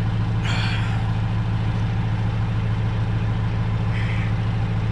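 An engine idling steadily, a low droning hum, with a short scrape about half a second in and a fainter one near four seconds.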